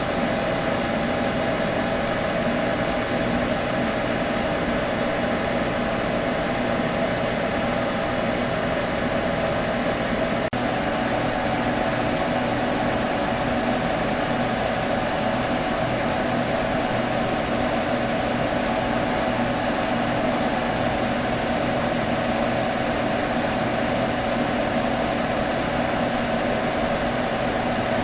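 Computer humming steadily: fan noise with a few held tones over an even whoosh.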